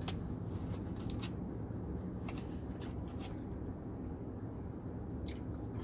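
A man chewing crispy seasoned potato wedges: scattered soft crunches and rustling from handling the paper bag and cup, over a steady low hum.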